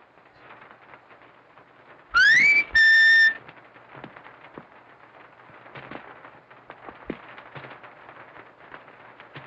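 A loud whistle: a short rising glide, then a steady held note about half a second long, about two to three seconds in. Faint hiss and crackle of an early optical soundtrack run under it.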